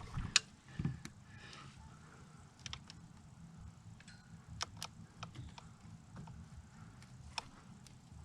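Scattered light clicks and taps of hand work on snowmobile engine parts, with a sharp click about half a second in.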